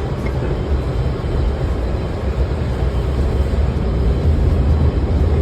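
Washington Metro railcar running at speed, heard from on board as a steady low rumble of wheels on rail.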